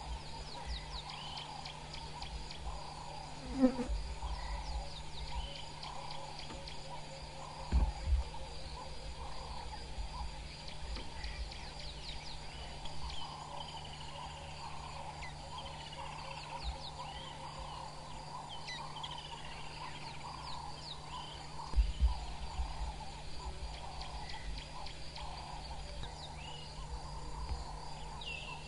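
Dawn bush ambience: many birds chirping and calling over a steady insect drone. There are a few brief low thumps, about a third of the way in and again late on.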